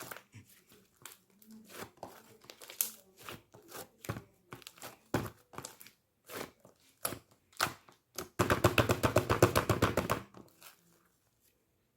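Thick cheese-style slime being stretched and squeezed by hand, giving irregular sticky crackles and pops. About eight seconds in, a rapid run of loud crackling pops lasts about two seconds.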